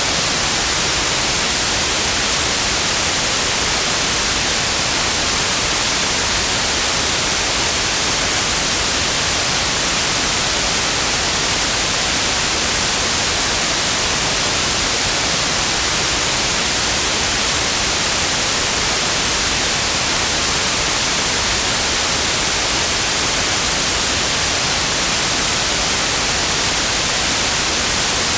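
Steady white noise: an even, unchanging hiss with no tones or events, strongest in the high frequencies.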